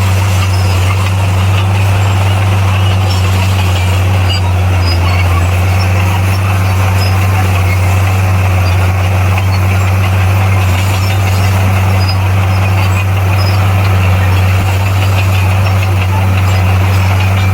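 Heavy diesel engine of a bulldozer running steadily, a loud deep hum that holds an even pitch with no revving or breaks.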